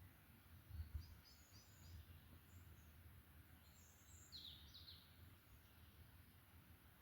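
Faint forest birdsong: a few scattered high chirps, then a quick cluster of short falling notes about four seconds in, over a low rumbling background.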